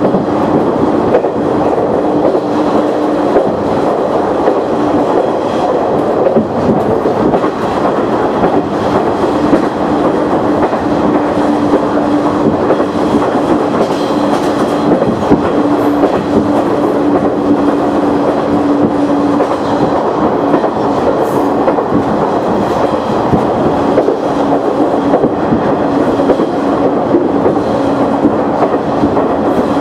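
KiHa 100 diesel railcar running along the line, heard from inside the car: a steady diesel engine drone under the rolling noise, with the wheels clicking over rail joints.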